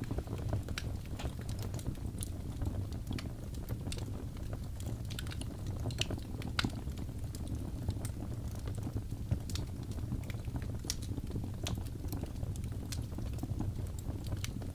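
Wood fire burning in a fireplace: a steady low rumble of the flames with many irregular sharp crackles and pops from the burning logs.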